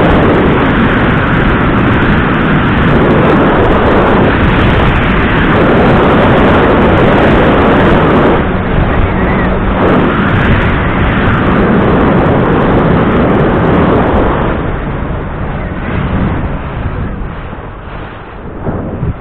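A small fishing boat under way: loud rushing wind and water noise with a faint steady engine hum underneath, easing off about fifteen seconds in.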